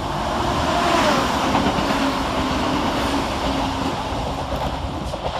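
Scotrail Class 170 Turbostar diesel multiple unit passing. Its running whine drops in pitch as it goes by, and the overall sound peaks about a second in. A few wheel clicks over rail joints come near the end.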